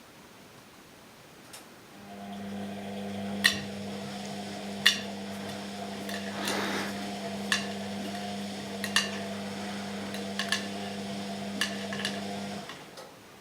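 Washing machine drum motor running with a steady pitched hum for about ten seconds and then stopping, with sharp clinks and knocks at irregular intervals over it and a brief swish in the middle.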